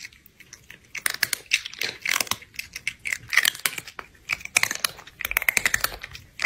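Crunchy chewing and eating sounds, crisp crackles and clicks coming in repeated bursts, as of fried chicken being bitten and chewed.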